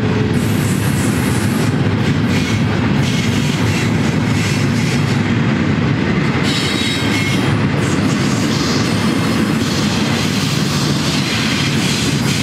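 Steady rolling noise of double-stack intermodal container well cars passing on the rails at the tail end of a freight train.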